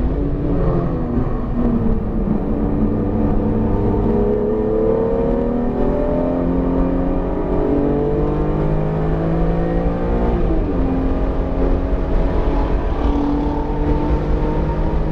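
BMW E46 M3's S54 inline-six under load on track, its pitch climbing and falling with the throttle, with a sudden pitch change about ten seconds in, as at a gear change, over steady road and wind noise. The engine is freshly built and still being run in, kept below 7,000 rpm.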